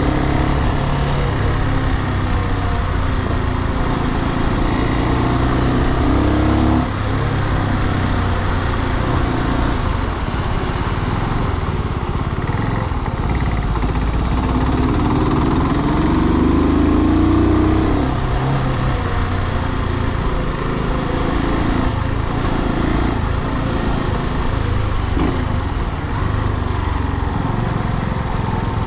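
Brixton Cromwell 250's single-cylinder air-cooled four-stroke engine running while riding, heard from on the bike. The engine note climbs in pitch under acceleration, drops suddenly about seven seconds in, and climbs again before easing off after about eighteen seconds.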